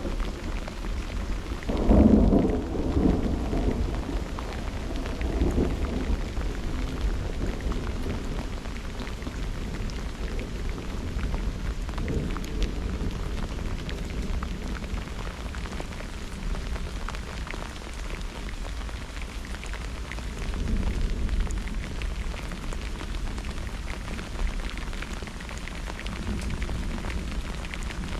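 Steady rain falling, with a loud roll of thunder about two seconds in that rumbles on for a few seconds, and softer rolls of thunder later.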